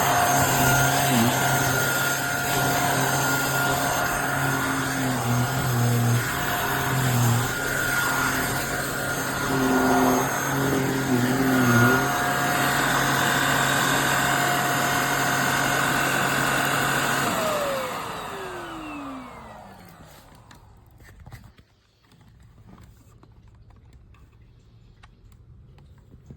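HYCHIKA handheld mattress vacuum cleaner running: a steady motor whine over a rush of air, its pitch dipping briefly a few times. Near two-thirds through it is switched off and the motor winds down in a falling pitch over about two seconds.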